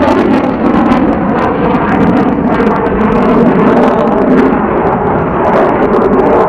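Loud, steady jet aircraft noise, a dense roar of engine sound that holds without a break.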